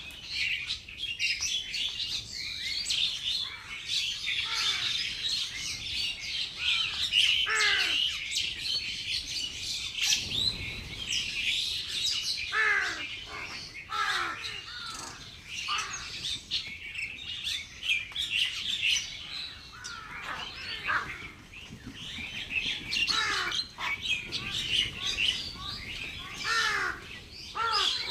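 A flock of small birds chirping and calling all at once, many short overlapping chirps and squawks with no pause.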